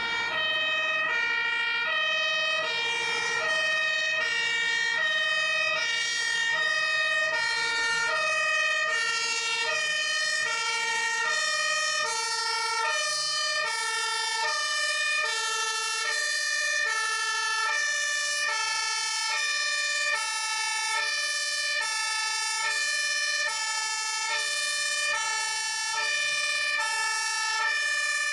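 Two-tone emergency vehicle siren, steadily alternating between a low and a high note, about one low-high cycle every second and a half, with a steady high tone under it.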